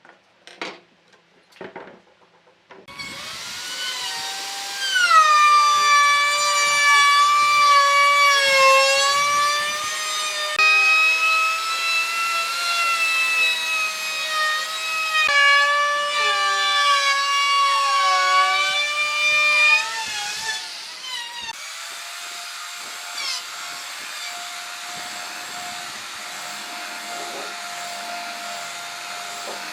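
Electric power tool cutting wood: two short clicks, then the motor whines under load, its pitch sagging and wavering as it bites into the wood. About two-thirds of the way through it eases into a quieter, steady whine, running free.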